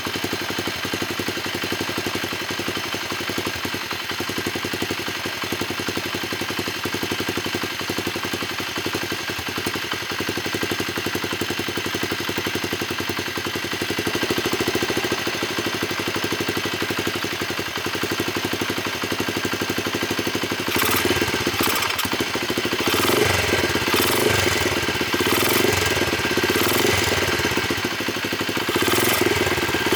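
Honda CRF50 single-cylinder four-stroke engine idling low and steady, then, about two-thirds of the way in, given a run of short throttle blips, each a brief rise in engine sound. Freshly rebuilt and running, but with jetting that is off, which the owner guesses is too rich.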